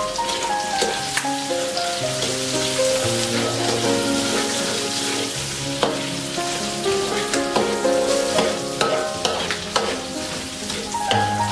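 Prahok and pea eggplants sizzling in a metal wok while a spatula stirs and scrapes, with scattered clicks of the spatula against the pan. Background music with a melody and held bass notes plays throughout.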